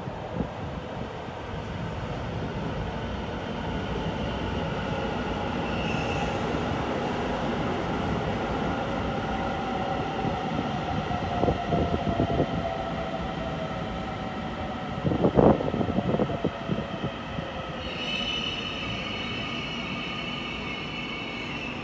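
Taiwan Railway electric train running through a station, its motor tone sliding down in pitch as it slows, with a few clunks of wheels over rail joints about halfway through. High-pitched wheel or brake squeal sets in near the end.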